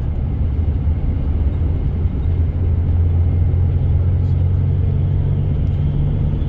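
Steady low drone of a moving coach's engine and road noise, heard from inside the cabin.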